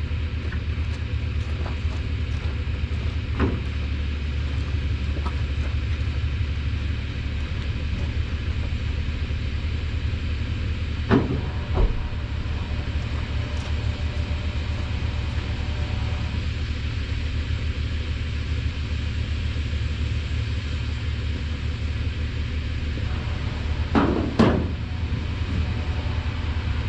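An engine idling steadily, with a few sharp metal clanks and knocks: one early, two close together about halfway through, and a cluster near the end.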